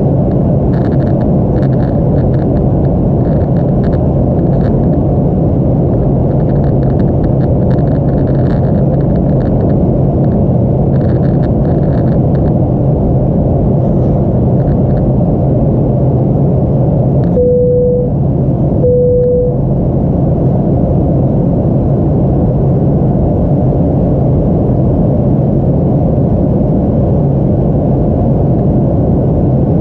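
Airliner cabin noise on approach: a steady, loud low rumble of engines and airflow. About two-thirds of the way in, two short beeps at the same pitch sound a second or so apart.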